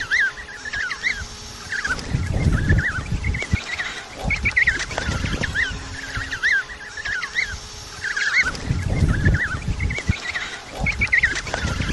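A flock of birds calling: many short chirping calls overlapping in a steady chorus, with bursts of low rumbling noise every few seconds.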